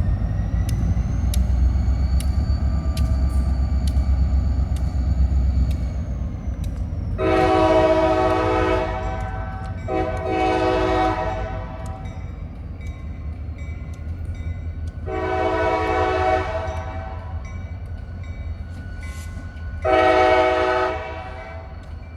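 Diesel locomotive rumbling, then its multi-chime air horn sounding four blasts: a long one, a short one right after, and two more long blasts several seconds apart.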